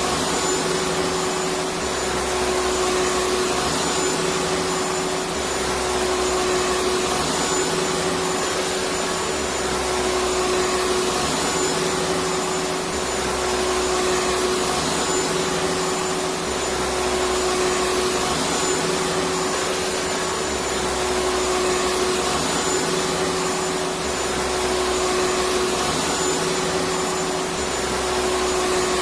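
Electric vacuum cleaner running steadily, a constant rush of air with a steady whine, over a low rumble that swells and fades every two to three seconds.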